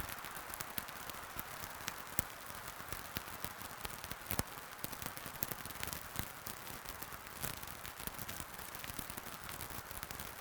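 Wood fire burning in a fireplace: a steady hiss with irregular crackles and sharp pops, a few of them louder.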